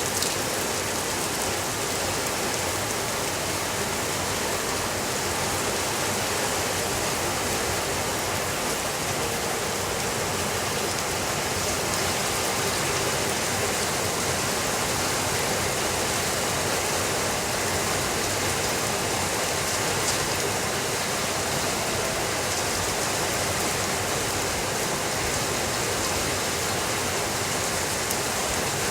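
Steady rainfall, an even hiss of rain without pause or change in level.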